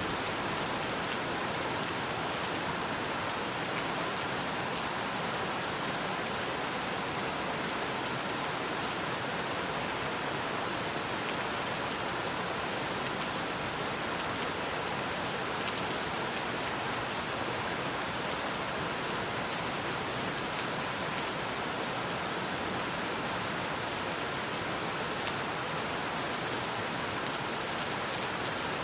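Steady rainfall, an even hiss of rain on surfaces with faint scattered drop ticks.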